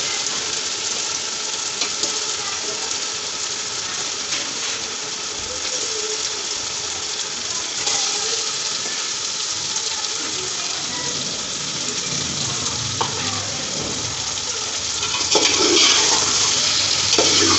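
Spice masala frying in ghee in a steel pot, a steady sizzle, as raw chicken pieces are dropped in by hand. Near the end it gets louder as a spatula stirs through the pot.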